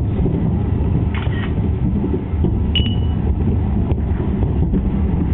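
Steady low rumble of distant fireworks, with a few faint pops and a brief high beep about halfway through.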